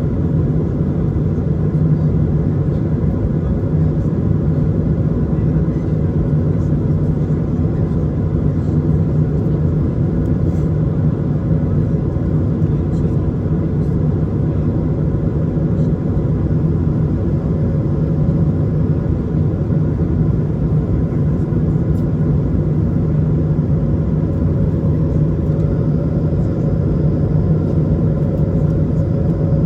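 Steady cabin noise of an Airbus A220 in flight: a constant low rumble of its Pratt & Whitney PW1500G geared turbofan engines and the airflow, with a few steady tones above it. Near the end a slightly higher engine tone comes in.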